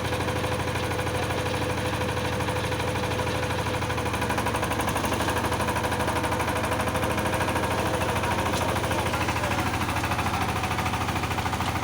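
Kirloskar power tiller's 15 HP single-cylinder horizontal water-cooled diesel engine running steadily, with a fast, even chugging beat.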